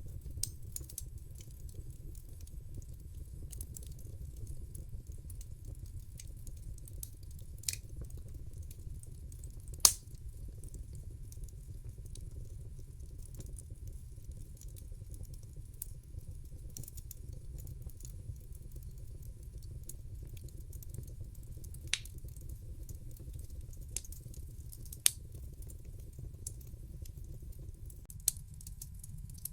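Fireplace crackling: sparse, sharp pops and snaps, the loudest about ten seconds in, over a steady low rumble.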